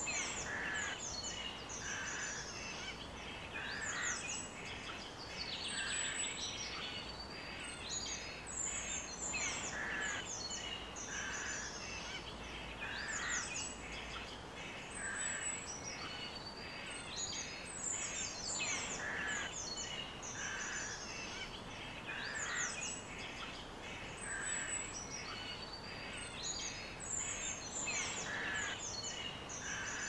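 Several songbirds chirping and singing over one another, short calls and trills coming every second or so, over a steady background hiss.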